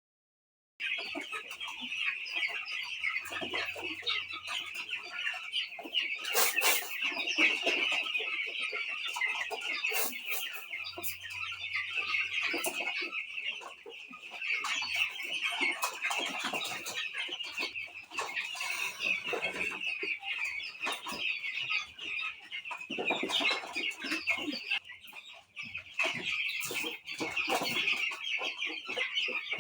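A large flock of 13-day-old chickens peeping and cheeping together in a continuous high chatter, starting abruptly about a second in. A few sharp knocks sound over it.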